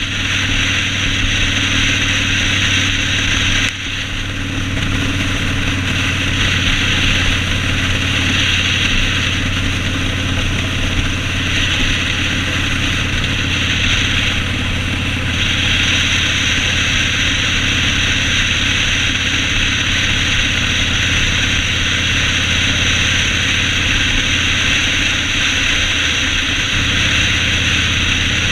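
Yamaha Road Star 1600's V-twin engine running steadily under a broad hiss. The sound dips briefly about four seconds in, and the engine note changes near the end.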